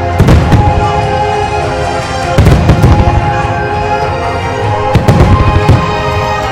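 Aerial fireworks going off in sharp bangs: a few near the start, a quick cluster about two and a half seconds in, and more around five seconds in. The bangs sound over steady background music.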